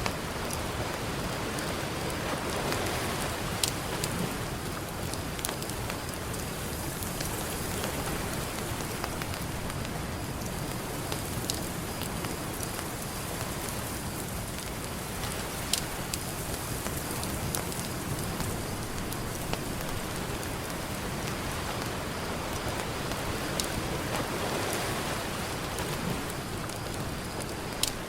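Campfire crackling with scattered sharp pops, over a steady wash of ocean surf that swells up briefly a couple of times.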